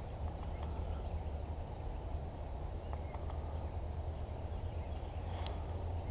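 Outdoor ambience of a steady low rumble, with a few faint, short high chirps and a single sharp click about five seconds in.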